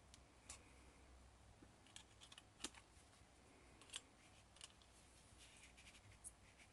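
Near silence with a few faint, scattered clicks and taps, about seven in all, from small craft pieces being handled and fitted back into place.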